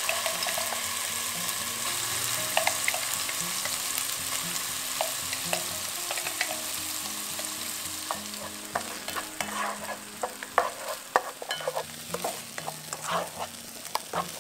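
Ground spice paste of shallots, garlic, ginger and red chilies sizzling in hot oil in a nonstick wok while a silicone spatula stirs it: the paste is being sautéed until fragrant and its raw smell is gone. A steady hiss at first, and from about halfway through many sharp crackles and ticks join it.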